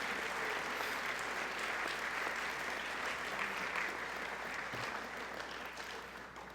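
Audience applauding in a gymnasium, steady clapping that fades away near the end.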